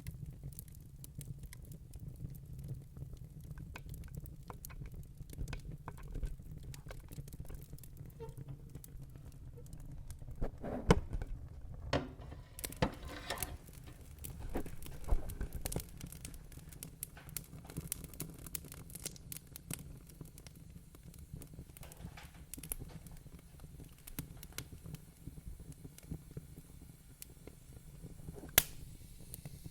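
Wood fire in a fireplace crackling, with irregular sharp pops over a steady low rumble of the flames. The crackling gets denser and louder through the middle, and one sharp pop comes near the end.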